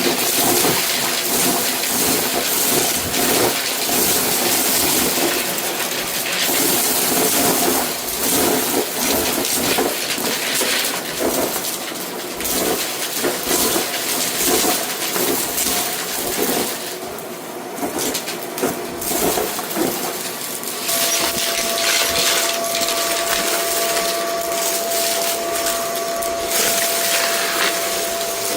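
Vacuum cleaner running on a rug, with bits of a sprinkled debris mix rattling and clicking as they are sucked up, over a steady motor whine. The rattling thins out and the whine holds steadier from a little past two-thirds of the way through.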